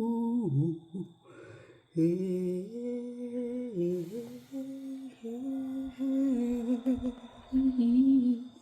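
A woman humming a slow, wordless melody in long held notes, pausing briefly about a second in and stopping just before the end.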